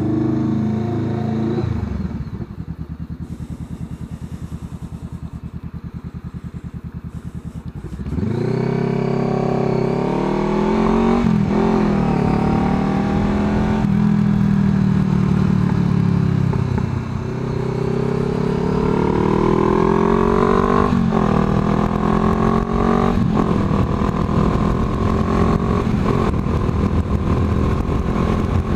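Honda CBR500R parallel-twin engine through an aftermarket exhaust with its baffle removed, running quietly at first, then about eight seconds in pulling away hard. The pitch climbs and drops several times as it accelerates through the gears. It eases off briefly, then speeds up again and settles into steady riding.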